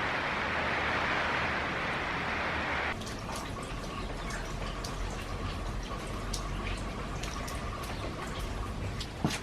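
Steady hiss of rain for about three seconds, then an abrupt change to scattered drips and taps of falling rainwater.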